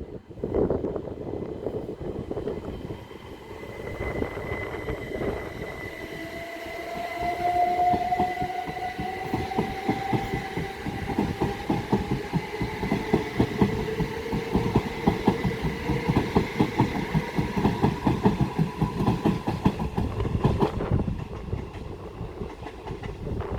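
A pair of Southeastern Class 377 Electrostar electric units pulling away, their traction motors whining and rising slowly in pitch as they gather speed. Wheels clack rapidly over the track as the carriages pass, and the sound drops away near the end.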